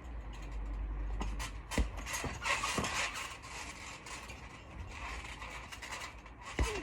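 Trampoline springs creaking and scraping under someone bouncing, with several sharp thumps of landings.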